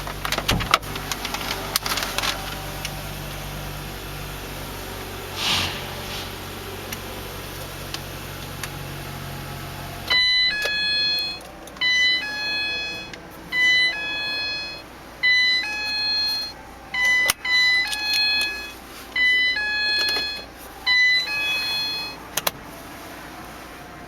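2010 Ford Transit Connect's 2.0-litre four-cylinder engine idling just after start-up, then switched off about ten seconds in. The van's dashboard warning chime then sounds again and again, a bright multi-note ding repeating every second or two.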